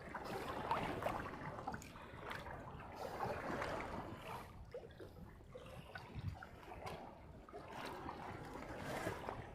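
Sea water sloshing and lapping against a small boat's hull, coming in uneven surges with a few faint knocks.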